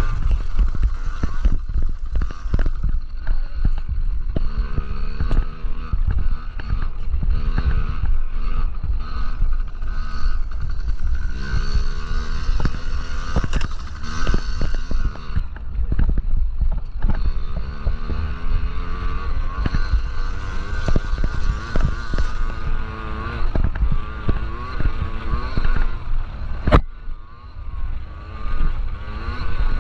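Yamaha PW50 two-stroke mini dirt bikes racing, their small engines buzzing and rising and falling in pitch as they rev. Heavy low buffeting on the microphone, with one sharp click near the end.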